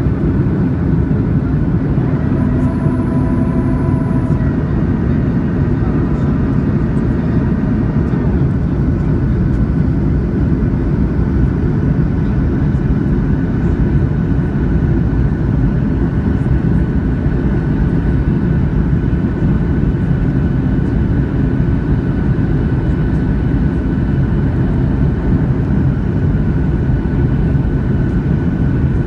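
Steady loud rush of jet engine and airflow noise heard inside a Boeing 737-600's cabin, with a thin steady whine above it. A few faint brief tones come through in the first several seconds.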